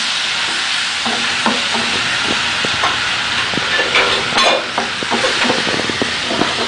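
Ginger-garlic paste and spices sizzling in hot oil in a pan, with a utensil scraping and knocking against the pan as it is stirred.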